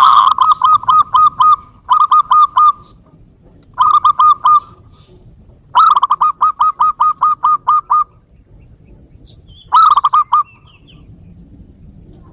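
Zebra dove (perkutut) calling: loud bursts of quick, evenly repeated staccato coo notes, five phrases in all, the fourth the longest at about a dozen notes. It is a lure call for drawing in wild zebra doves.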